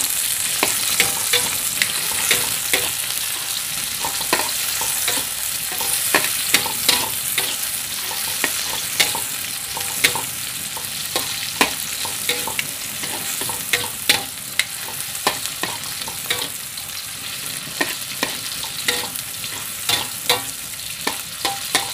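Sliced shallots, garlic and tomato sizzling in oil in a wok, stirred with a metal spatula that clinks and scrapes against the pan once or twice a second.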